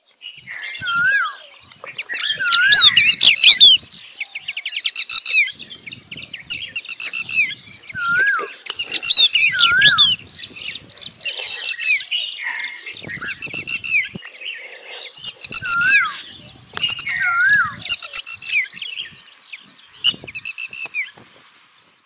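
Several songbirds chirping and calling in overlapping bursts every second or two: high, rapid trilling chatter, with a short whistled note that rises and falls, repeated again and again.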